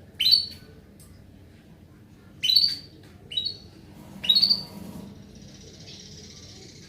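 Female canary calling: four short, sharp rising chirps a second or so apart, then fainter high twittering from about five seconds in.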